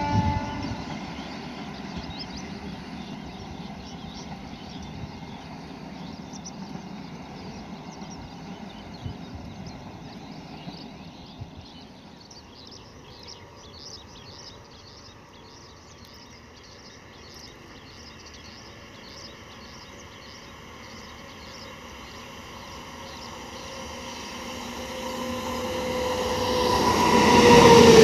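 Express trains running at speed on the line: a train horn blast cuts off just after the start, a fainter distant rumble follows, then an Indian Railways WAP-7 electric locomotive hauling an express approaches, its rumble rising over the last several seconds to a loud close pass with a tone sliding down in pitch.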